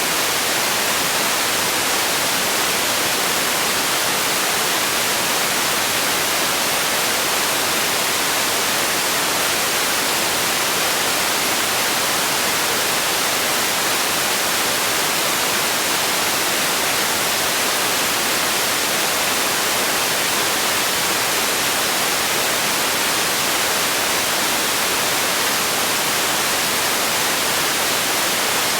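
Steady synthetic white-noise hiss for sleep, even and unchanging, bright and weighted toward the high end with little bass.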